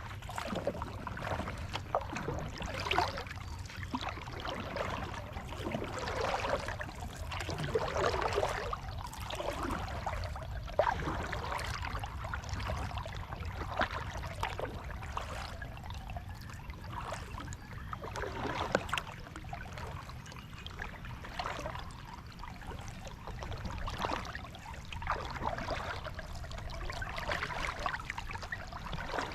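Kayak paddling: the paddle blades dip and pull through the water with irregular splashing and trickling every second or two, over a steady low rumble.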